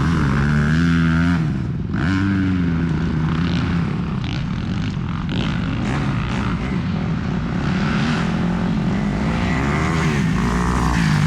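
Motocross bikes' engines revving on the track, the pitch climbing and dropping again and again as the riders work the throttle and shift.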